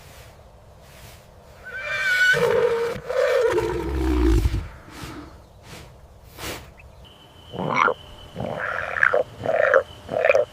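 Animal calls: a long, loud call that falls in pitch about two seconds in, then four shorter calls near the end.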